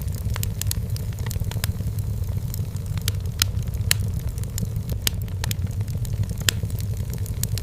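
Wood fire burning in a fireplace: irregular sharp crackles and pops from the burning firewood, several a second, over a steady low rumble.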